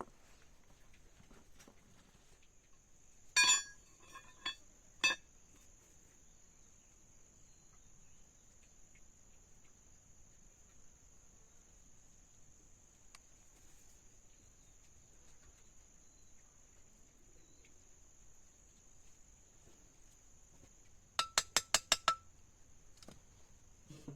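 A steady high insect drone, like crickets or cicadas, under a few sharp metallic clinks: one ringing clink with two lighter ones after it about three and a half seconds in, and a quick run of about six clinks near the end.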